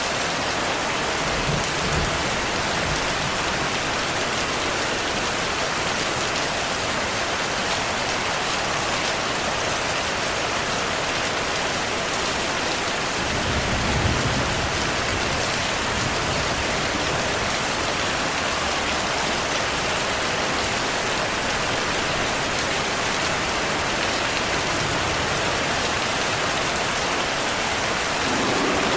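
Steady heavy rain, with low thunder rumbling twice: briefly about two seconds in and more strongly about halfway through.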